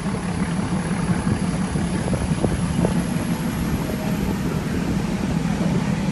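Nilgiri Mountain Railway toy train running along the track, heard from on board: a steady low rumble of the carriage, with a few scattered clicks of the wheels over the rails.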